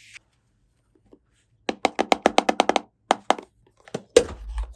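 Hard plastic toy pieces clicking and knocking as they are handled: a quick run of about ten clicks, a few more, then a heavier knock near the end.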